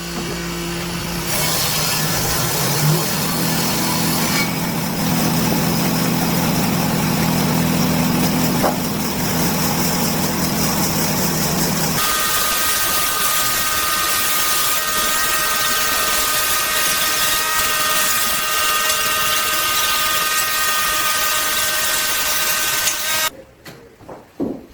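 Electric woodworking power tools running steadily, with abrupt changes of tone about a second in, about four seconds in and about twelve seconds in. The sound stops about a second before the end.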